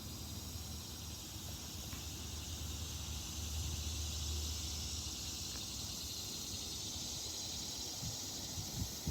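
Steady high-pitched hiss of an insect chorus, with a low rumble underneath that swells about four seconds in.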